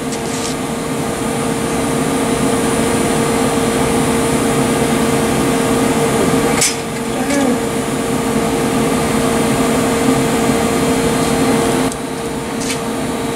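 Steady machine hum with a constant tone, and a couple of faint clicks about six and a half and twelve and a half seconds in.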